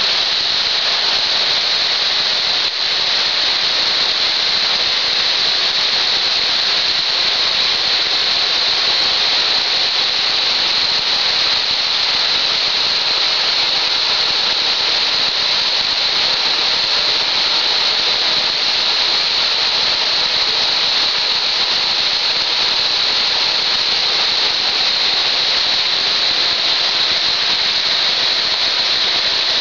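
Waterfall: a steady, loud rush of falling water, heavy in the hiss of spray.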